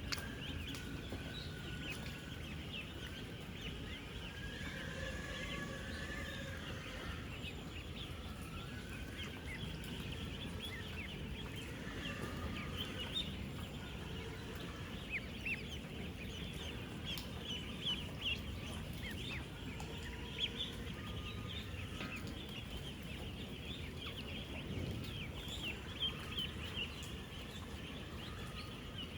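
Dense chorus of thousands of 10-day-old ducklings peeping, many short high peeps overlapping without a break, over a low steady background noise.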